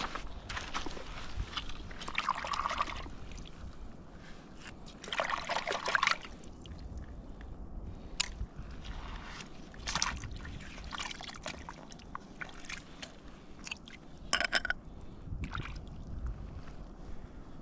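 Water sloshing and splashing in short, irregular bursts over a steady low rumble.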